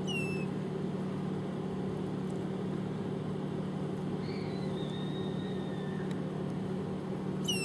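Car engine idling with a steady low hum, heard from inside the cabin. A faint, thin high whistle sounds for about two seconds just past the middle.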